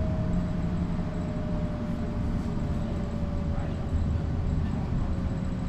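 Mercedes-Benz O405 bus with a Voith three-speed automatic gearbox, heard on board under way: a steady low diesel rumble with a thin drivetrain whine that slowly falls in pitch as the bus loses speed.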